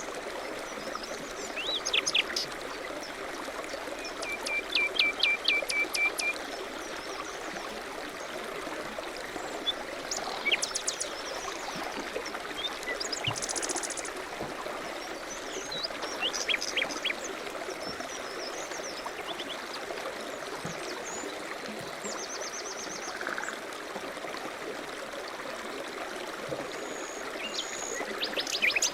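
Flowing river water rushing steadily while small songbirds sing in short chirping phrases and trills every few seconds.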